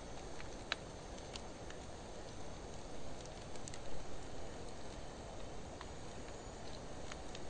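Wood fire of driftwood and dry hardwood burning: a steady low rush of flames with scattered sharp crackles and pops.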